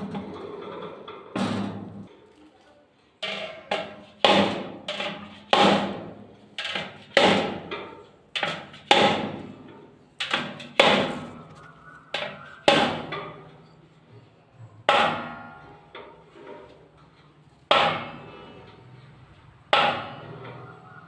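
A series of sharp strikes, each ringing out briefly, coming about every half second at first and more sparsely later, over a faint steady hum.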